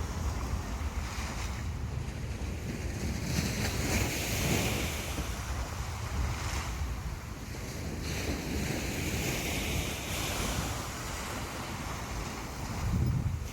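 Sea waves breaking and washing up on a sandy beach, the hiss of surf swelling and fading every few seconds, with wind buffeting the microphone as a low rumble.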